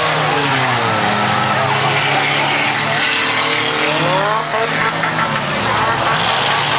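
Several passenger-car engines racing, revving and falling in pitch about a second in, then climbing again around the four-second mark, over a haze of tyre and road noise.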